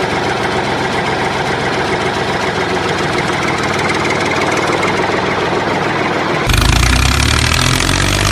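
Steady engine-like motor running. About six and a half seconds in it changes abruptly to a heavier, deeper rumble.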